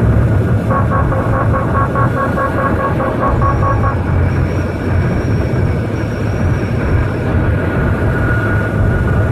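Hyundai Grandeur HG cabin at over 130 km/h: steady road and wind noise with a low rumble, and whistling wind tones from the passenger side that come and go, a pulsing whistle in the first few seconds, then a thin high whistle, then a lower one near the end. This is the passenger-side wind noise the owner is chasing, checked by switching the air intake between recirculation and fresh air.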